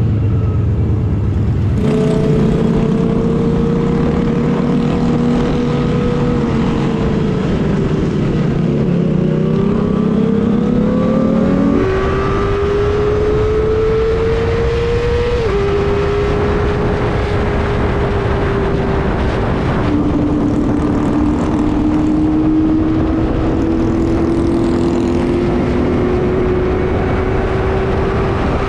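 Kawasaki ZX-25R's 250 cc inline-four engine under way at high revs, its pitch climbing in each gear and dropping back at a few upshifts, with a dip and rise in revs partway through.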